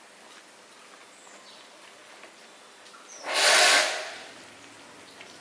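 A single loud hiss lasting about a second, starting about three seconds in and tailing off, over faint bird chirps.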